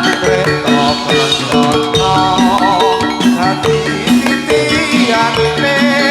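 Javanese gamelan music accompanying a jathilan dance: metallophones ring repeated steady notes under a wavering melodic line, with drum strokes throughout.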